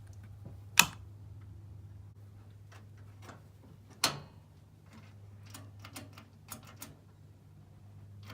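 Boat galley stove's battery-powered push-button igniter being tried: two sharp clicks about three seconds apart, with fainter ticks between. The igniter is not sparking despite a new battery.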